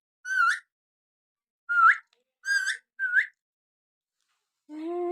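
Pet parrot giving four short whistled calls, each one hooking up in pitch, followed near the end by a longer, lower steady note.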